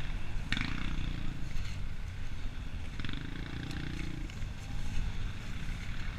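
A motor vehicle's engine running with a steady low rumble, twice rising briefly to a higher, pitched drone.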